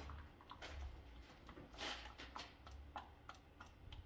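Faint clicks and light knocks of motor oil being poured from a plastic jug into the engine's oil filler, with one louder burst of noise about two seconds in.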